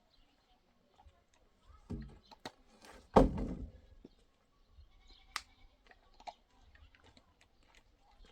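Livestock bleating: a short call about two seconds in, then a louder one a second later, with scattered light clicks and knocks.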